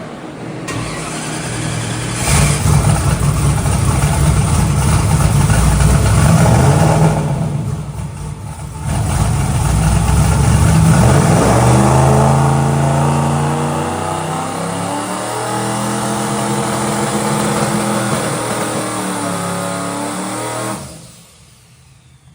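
Twin-turbo NASCAR truck's V8 held on the brake against a two-step rev limiter, building boost to about 10 psi. The revs climb, dip briefly about a third of the way in, then hold high in uneven steps before the engine is shut down abruptly near the end.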